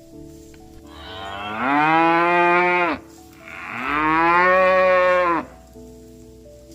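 Cow mooing twice, two long calls of about two seconds each; each rises in pitch at the start, holds, and drops at the end.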